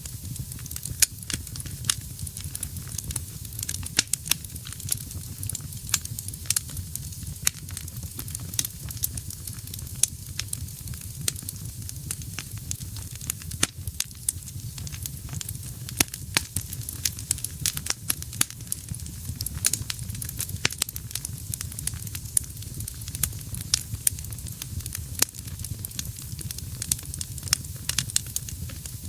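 Wood fire burning in a fireplace: a steady low rumble and hiss of flames with frequent sharp, irregular crackles and pops from the burning logs.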